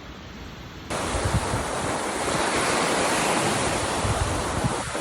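Sea surf washing onto the shore, with wind buffeting the microphone. It cuts in abruptly and much louder about a second in, after a quieter hiss.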